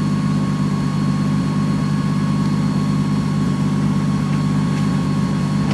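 Toyota 2JZ-GTE straight-six with a single T67 turbo and 3-inch exhaust, idling steadily with no revving, while the truck sits stopped for a boost controller adjustment.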